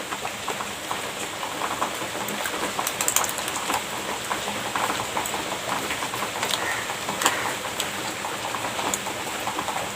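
Close-miked eating sounds of someone chewing cream pastry: a steady run of small wet clicks and mouth smacks over a faint hiss.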